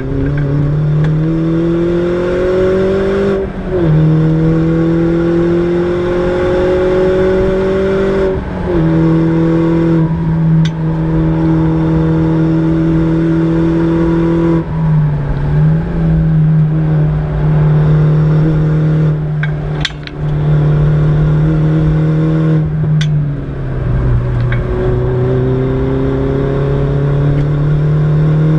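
Mini John Cooper Works (R56) turbocharged 1.6-litre four-cylinder heard from inside the cabin under hard acceleration: engine pitch climbs and drops at upshifts about three and a half and eight and a half seconds in, then holds steady at speed, eases off briefly twice, and climbs again near the end. Road and tyre noise runs underneath, with a few sharp clicks.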